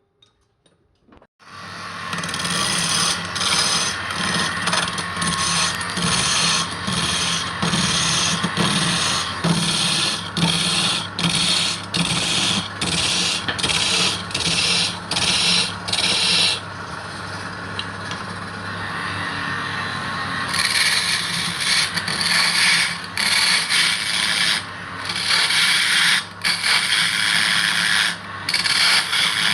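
A wood lathe starting up about a second in and running with a steady hum, while a tool rubs against the spinning wood in quick repeated strokes, pausing briefly in the middle.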